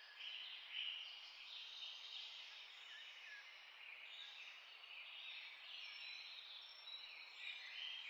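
Faint chirping like birdsong, short repeated calls and rising notes over a steady hiss.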